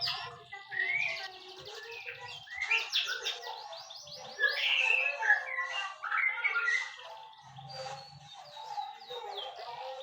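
White-rumped shama (murai batu) singing a long, varied song of whistles, sweeping notes and rapid trills.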